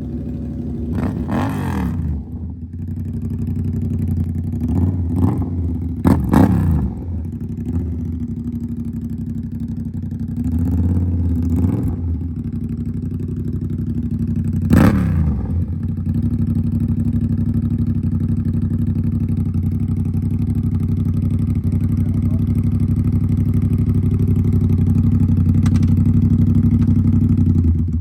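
Yamaha R7's 689 cc parallel-twin engine breathing through a full SC Project exhaust, idling with about five quick throttle blips that rise and fall in pitch; the blip about fifteen seconds in is the loudest. After that it runs at a steady idle until the sound cuts off at the end.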